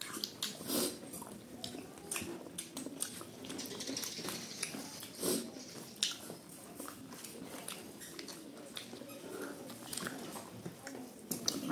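People chewing and smacking their lips as they eat rice and pork by hand, with many short wet clicks and smacks.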